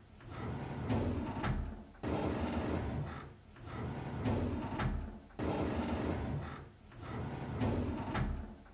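A drawer sliding open on its runners, again and again, with a new pass starting about every three and a half seconds.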